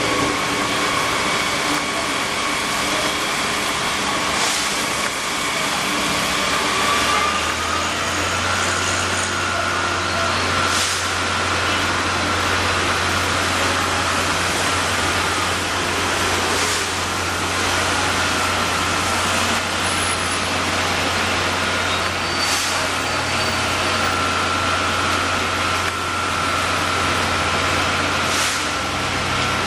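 Motor vehicle engine running under a constant hiss. About a quarter of the way in, a whine rises slightly in pitch and a low drone joins it. A few short clicks stand out.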